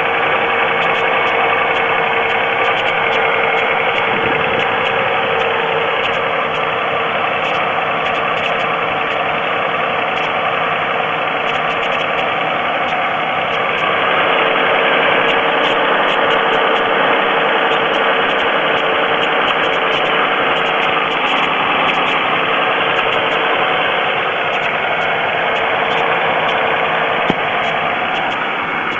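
GM 3.4-litre V6 of a 2002 Pontiac Grand Am idling with a steady ticking knock, which the owner suspects may be piston slap despite a full oil level. The sound grows a little louder about halfway through.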